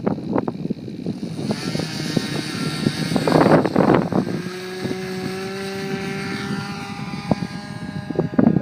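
Glow-fuel engine of a radio-controlled P-51 Mustang model running, its note sliding slowly lower and fading as the plane flies. Wind buffets the microphone with gusts at the start and near the end.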